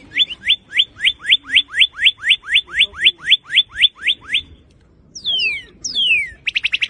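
Northern cardinal singing: a run of about sixteen clear, down-slurred whistles at about four a second. After a short pause come two longer downward slurs, and then a fast trill near the end.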